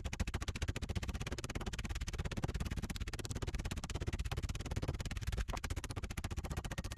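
Fast, dense crackling and sizzling from a campfire cooking fire, starting abruptly and running steadily.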